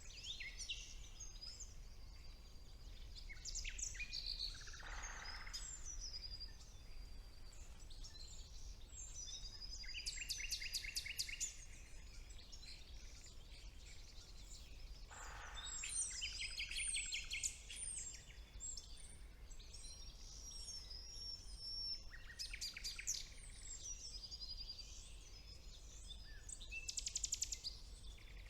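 Woodland songbird chorus with a common nightingale among the singers: overlapping whistles and bursts of fast, repeated high notes, with a few lower, harsher calls.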